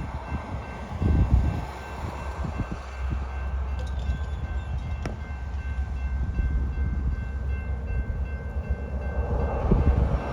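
Freight train led by an EMD SD70MAC diesel-electric locomotive, with a steady low rumble, faint steady high tones above it, and wind gusting on the microphone.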